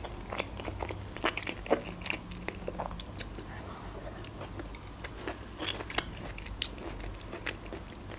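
A person chewing and eating food: mouth sounds, a steady run of small sharp clicks and smacks.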